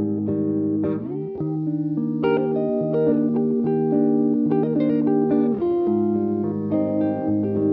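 Guitar music: plucked guitar notes and chords, held and changing about once a second.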